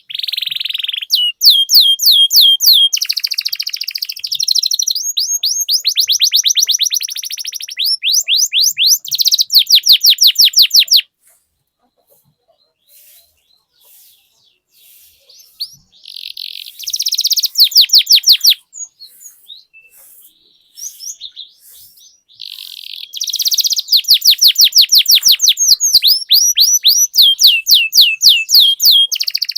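Domestic canary singing long rolling trills, fast runs of rapidly repeated sweeping notes, with the song breaking off for a few seconds about a third of the way in before the rolls resume.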